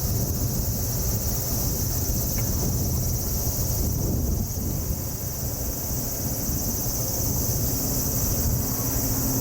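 Wind rumbling on the microphone, with a steady high-pitched chirring of insects.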